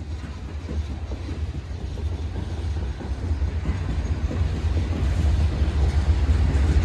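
Union Pacific coal train rolling past at low speed: a steady low rumble of freight cars on the rails that grows steadily louder as the rear distributed-power locomotives draw near.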